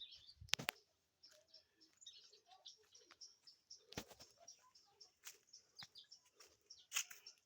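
Faint, scattered bird chirps, with a few sharp clicks: one about half a second in, one midway and one near the end.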